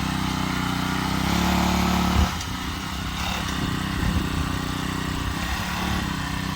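Small engine of a gas mini bike running under throttle, a little louder just after a second in. About two seconds in it backs off suddenly and runs on at a lower speed, with the pitch wavering.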